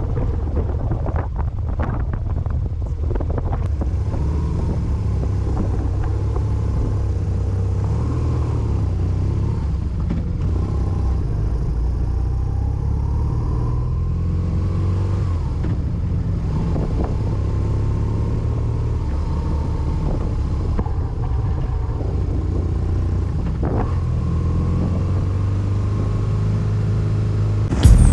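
Motorcycle engine running at steady road speed: a continuous low rumble whose pitch drifts gently up and down, with wind noise over the bike.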